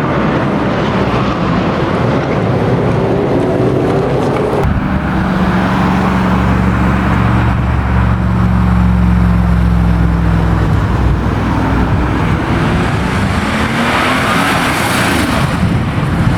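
Classic car engines: one accelerating with its pitch climbing, then, from about five seconds in, a deep engine rumbling at low revs that slowly drops in pitch, and near the end another engine revving up.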